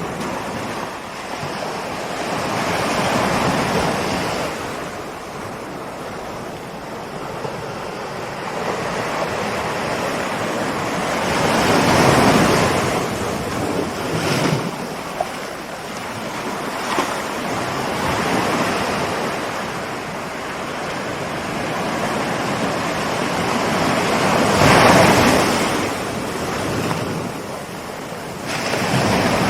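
Ocean surf: waves rolling in and breaking, the wash swelling and easing every few seconds, with the largest breakers near the middle and near the end.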